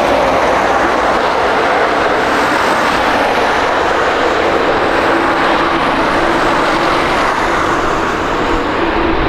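Jet airliner's engines running with a loud, steady roar, a faint steady hum riding on it and holding through.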